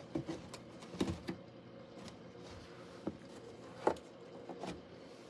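A few scattered light clicks and taps over quiet room noise, the loudest about a second in and again near four seconds.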